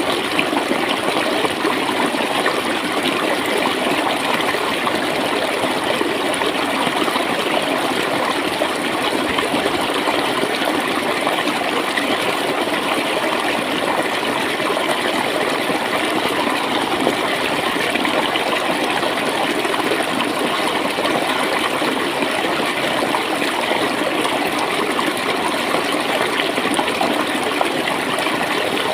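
Water flowing and gurgling steadily, like a stream.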